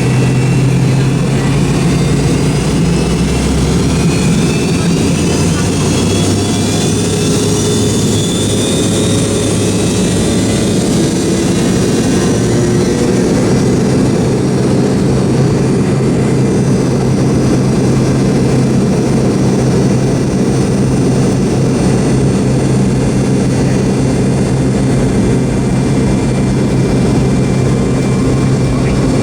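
Jet engines of a McDonnell Douglas MD-88 running at high power, heard from inside the cabin as a steady loud roar with a low hum. A high whine rises in pitch over about the first ten seconds.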